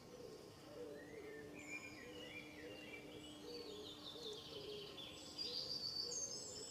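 Faint birdsong in woodland: several birds chirping and calling in quick, short notes, growing busier and louder near the end.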